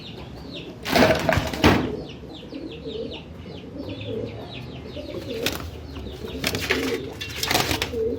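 Caged birds chirping in quick, short, repeated calls, with bursts of wings flapping about a second in and again near the end.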